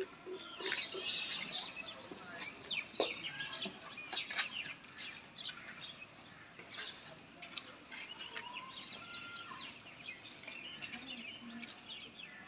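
Birds chirping in many quick, short, high notes throughout, with a few longer held calls about eight to nine seconds in and one louder sharp sound about three seconds in.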